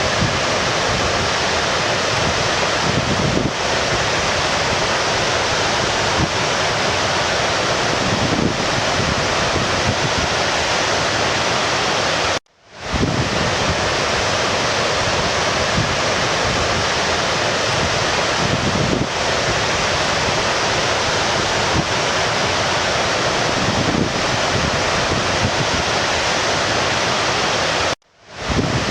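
Steady rushing of a stream, a continuous water sound. It cuts out abruptly twice, about twelve seconds in and near the end, and fades straight back in each time.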